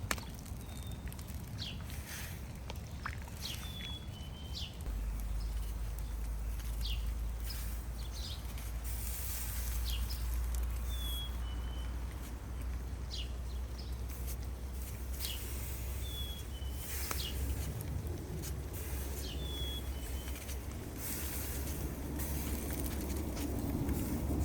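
Small birds calling: short high chirps, each stepping slightly down in pitch, and sharp call notes every few seconds. A steady low rumble sets in about five seconds in.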